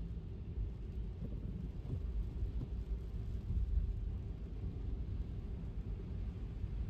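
Steady low rumble of a car driving: road and tyre noise with some buffeting, and little high-pitched hiss.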